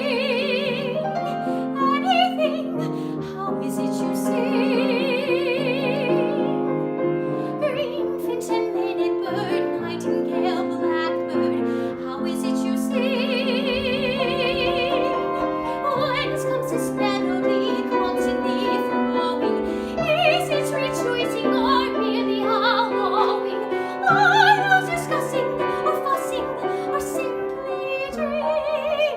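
Solo soprano singing a musical-theatre song with piano accompaniment, holding several long notes with a wide vibrato.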